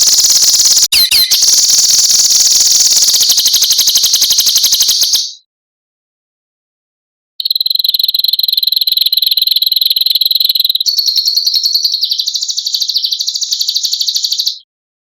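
A songbird's harsh, high, very rapid buzzing rattle (a 'besetan' call), in two long bursts separated by about two seconds of silence.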